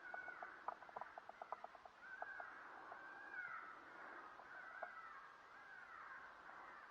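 Faint animal calls, several in a row, each rising and falling in pitch, with a quick run of small clicks in the first two seconds.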